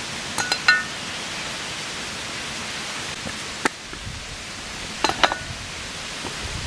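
Steady outdoor rushing noise with a few sharp clicks: a cluster about half a second in, a single one near four seconds, and another pair around five seconds.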